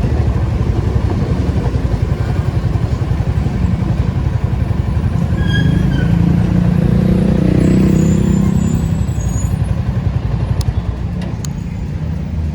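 Nissan 280Z's straight-six engine running in slow traffic, a steady low pulsing note that swells louder about halfway through and settles again. A few sharp clicks near the end.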